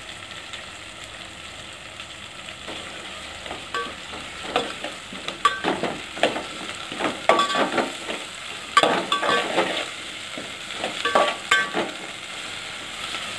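Onions, tomatoes and ginger-garlic paste sizzling steadily in hot oil in a metal pot. From about four seconds in, a metal spatula stirs in several spells, scraping and clinking against the pot with a brief metallic ring.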